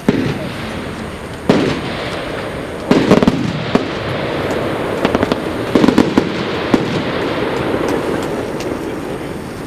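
Fireworks display: a continuous crackle of exploding shells, with several louder bangs about one and a half, three and six seconds in.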